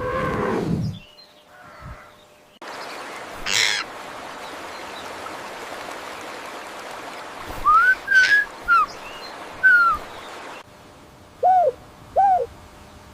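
Recorded bird calls in separate clips. First comes a run of short chirps over a steady hiss; after a cut there are two lower, short arched calls like hoots. A pitched animal call fades out in the first second.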